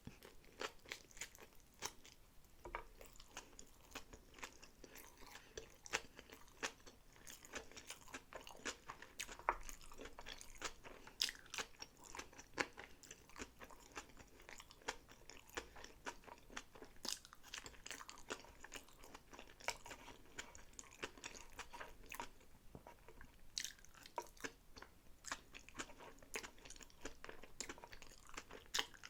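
A person chewing sushi close to the microphone: a continuous run of small crunchy, wet mouth clicks.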